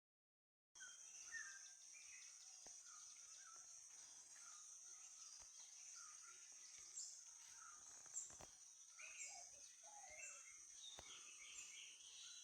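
Forest ambience: a steady high-pitched insect drone with many short, repeated bird chirps over it and a few faint clicks. It starts under a second in.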